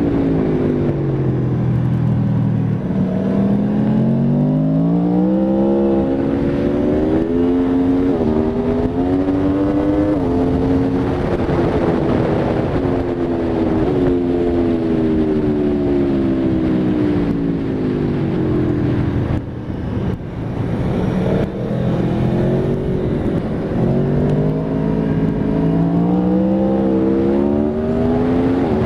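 Aprilia Tuono V4 RR's V4 engine under hard acceleration, its pitch climbing through the gears with a quick drop at each upshift. About halfway through the revs fall away as it slows, dip briefly, then climb again through the gears near the end.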